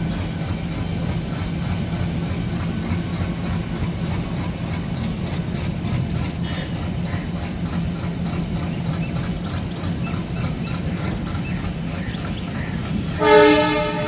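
Train running with a steady low rumble. Near the end comes a short, loud horn blast lasting about a second.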